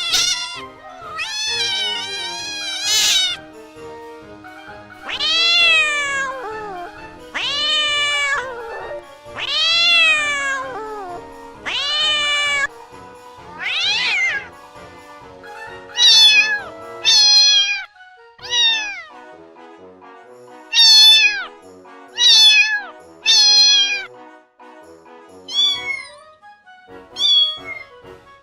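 A domestic cat meowing over and over, one rising-and-falling meow every second or two. The later meows are shorter and sharper, and background music plays underneath.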